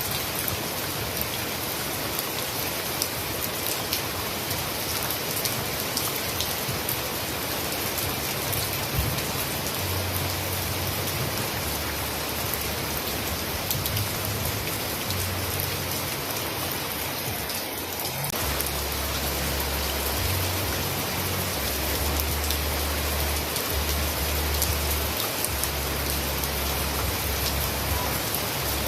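Heavy rain falling steadily: a dense hiss full of fine drop patter. A low rumble runs underneath, stronger in the second half.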